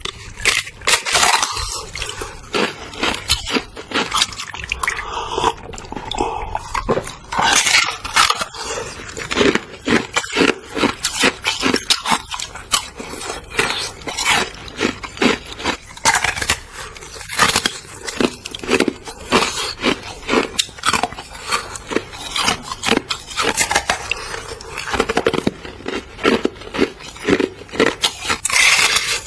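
Biting and crunching frozen ice with juice inside, a dense, irregular run of sharp cracks and crunches close to the microphone.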